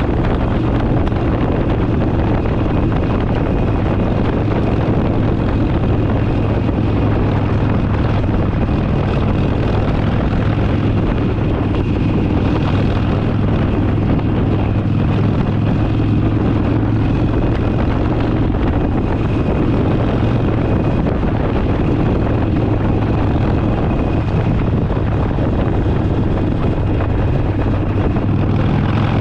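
Harley-Davidson Forty Eight's air-cooled V-twin engine running at a steady cruising speed, with a constant low hum and road and wind rush.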